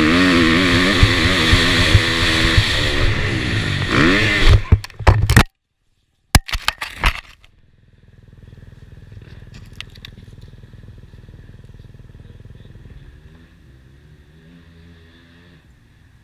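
A KTM motocross bike's engine revving hard with changing pitch, then a cluster of sharp knocks and scrapes as the bike comes up short on a step-up jump and crashes, with the sound cutting out for under a second in the middle. Afterwards only a faint engine sound remains.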